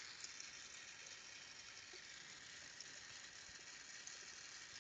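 Faint steady hiss of a Carlisle glassblowing torch flame burning.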